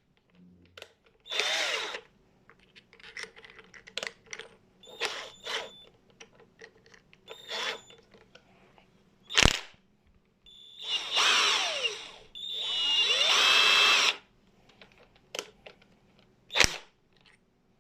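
Cheap brushless cordless impact wrench's motor spun up three times by the trigger: a short burst, then two longer runs of about one and a half seconds each, its whine rising and falling with the trigger. Sharp clicks and knocks of the tool being handled come in between.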